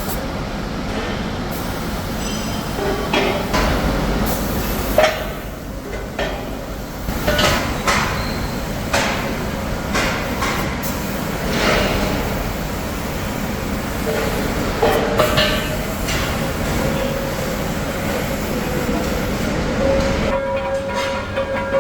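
Factory machinery running steadily, with repeated sharp metal clanks and knocks, and a steady whine that comes in near the end.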